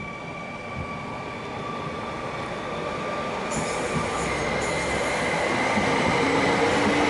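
Electric multiple units moving through a station: the rumble of wheels on rails and traction motors grows steadily louder as a Stadler FLIRT unit approaches. Steady whining tones run over it.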